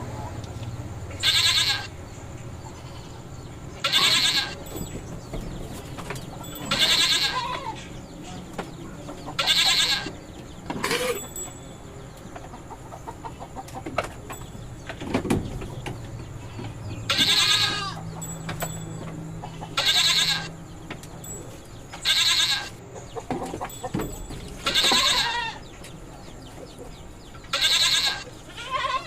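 Goats bleating, about ten loud calls that come every two to three seconds, with a quieter stretch in the middle.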